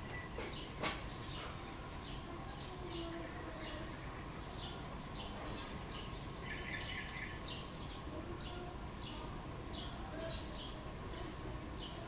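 Small birds chirping: short, high calls repeated irregularly over steady background noise, with one sharp click a little under a second in.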